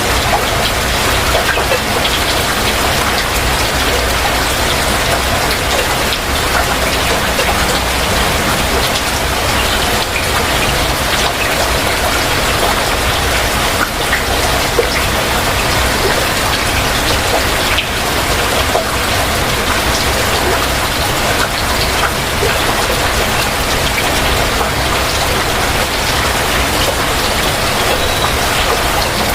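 Heavy rain falling steadily: a dense, even hiss with scattered ticks of individual drops.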